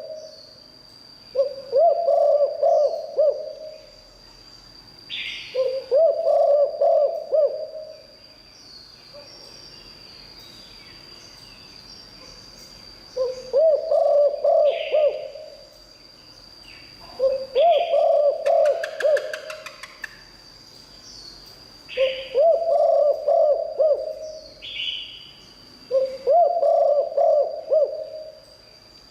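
Spotted dove cooing: six repeated phrases of several stepped, throaty coo notes, each about two seconds long, with gaps of a few seconds between them. A steady high-pitched whine runs underneath throughout.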